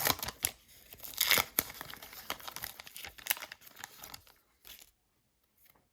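Foil trading-card pack wrapper being torn open and crinkled: a run of short crackling tears and rustles that stops about five seconds in.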